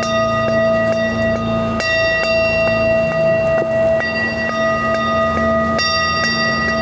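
Layered steady electronic-sounding tones held for seconds, with higher tones dropping out and coming back in a few times, over an even rain-like hiss with faint ticks.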